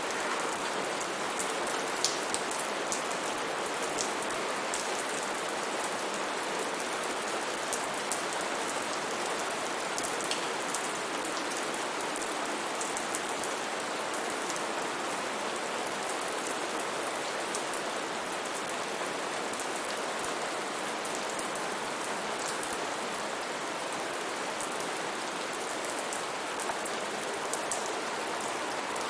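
Steady rain falling on foliage and surfaces, an even hiss with the sharp ticks of individual drops scattered through it.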